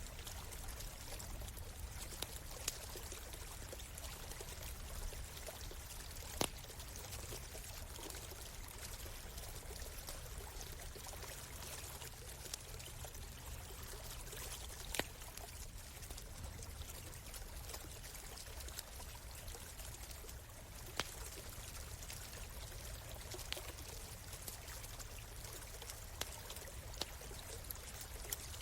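Stream water running and pouring steadily, with a campfire's sharp crackles and pops breaking in every few seconds, the loudest pop about six seconds in.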